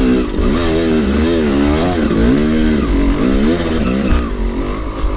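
Two-stroke dirt bike engine revving up and down over and over as the throttle is worked, settling to a steadier, lower note near the end.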